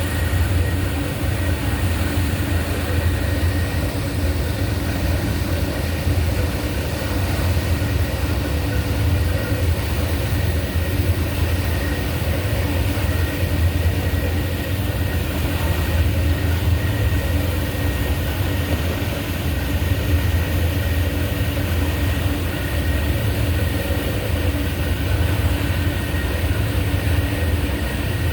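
Large vehicle's machinery running steadily: a constant low hum with a few steady whining tones above it over even noise, with no change in speed.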